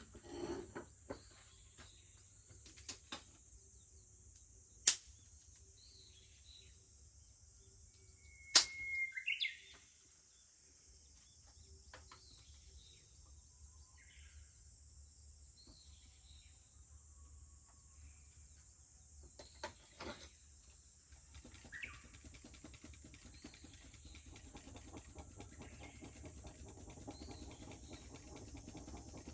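Wood fire crackling with occasional sharp pops; the two loudest come about 5 and 8.5 seconds in. A steady high insect buzz runs underneath, and small birds chirp now and then. The crackling grows denser over the last several seconds.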